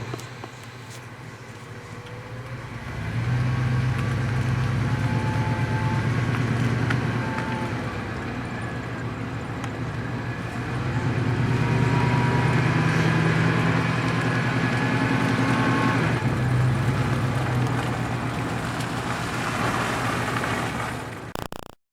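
A car engine running with road noise as the car drives. The low hum swells about three seconds in and again about halfway through, then the sound cuts off abruptly near the end.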